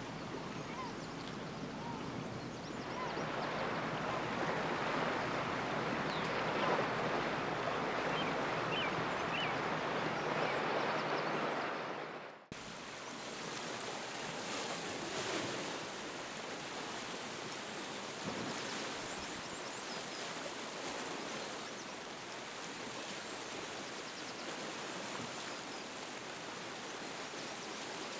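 Sea surf washing steadily. About twelve seconds in it cuts off abruptly and gives way to a quieter, even wash of water.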